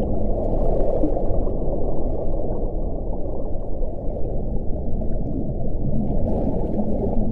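Wind blowing steadily, a dense low rush with little above the low range and no clear whistling tone.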